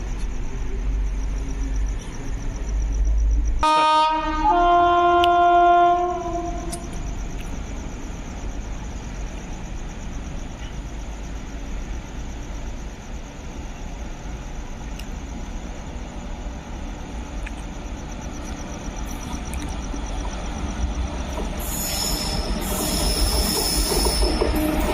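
Indian Railways train running past with a steady rumble, its locomotive horn sounding a single blast about four seconds in that lasts roughly two and a half seconds and changes note partway. Near the end a high-pitched squeal from the wheels on the rails sets in as the rumble grows louder.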